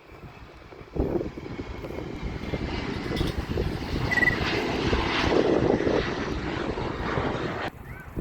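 Airplane engines passing close by, a loud rushing noise that comes in suddenly about a second in, swells to its loudest past the middle and cuts off abruptly near the end.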